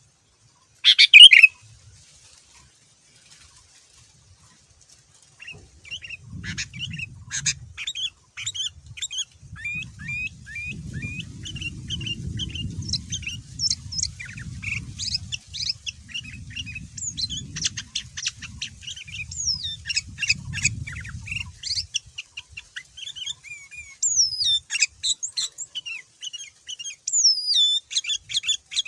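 Sooty-headed bulbul (kutilang) singing: rapid chattering chirps and short whistled notes, dense and continuous, after one loud short call about a second in and a few seconds' pause. A faint low rumble runs under the song for much of it.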